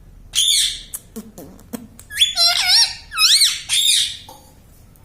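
Indian ringneck parrot calling: a series of loud, high calls whose pitch arches up and down, in about five bursts, with a closely spaced cluster near the middle.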